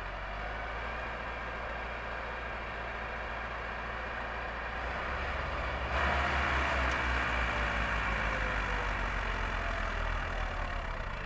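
Vehicle engine running with road noise: a steady low rumble that gets louder and rougher about six seconds in.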